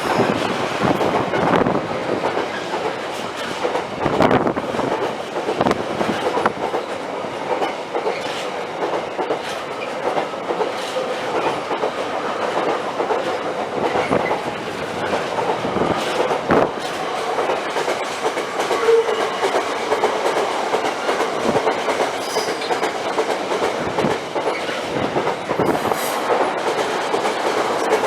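A train passing, its wheels clattering over the rails with repeated irregular clicks above a steady rumble.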